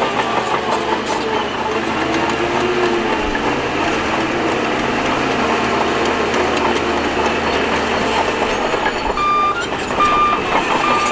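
Shantui DH17C2 bulldozer running as it pushes rock and dirt fill, a steady mechanical rumble with clatter from the tracks and moving rock. About nine seconds in, a reversing alarm starts, with a steady high beep repeating about once every 0.8 seconds.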